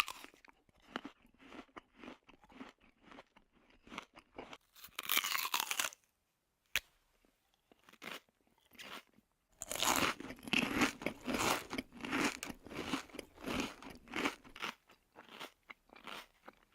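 A person eating crunchy food: irregular crunching bites and chewing. The crunching pauses for a few seconds near the middle, then comes thick and fast for several seconds before thinning out.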